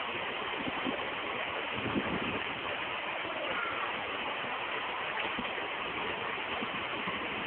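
Flowing floodwater making a steady rushing sound.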